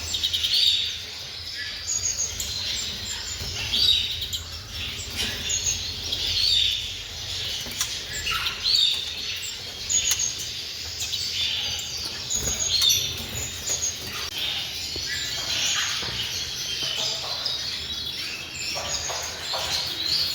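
Many caged small songbirds (canaries, finches and canary-hybrid mules) chirping and twittering over one another in a busy chorus.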